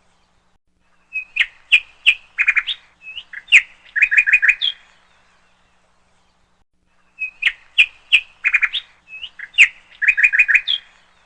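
A bird chirping and whistling in short quick phrases. The same sequence of chirps repeats identically about every six seconds, with silent gaps between, as from a looped recording.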